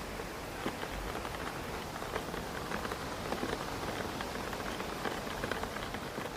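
Rain pattering against a window pane, a steady wash of rain with many small scattered drop ticks.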